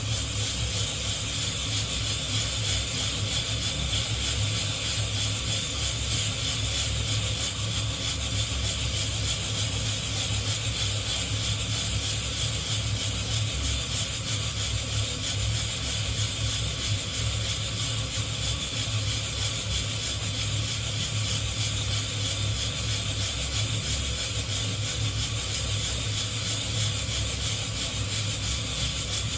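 Coffee beans being shaken in a hand-held wire-mesh roaster over a flame: a continuous fine rattling of beans against the mesh over a steady hiss.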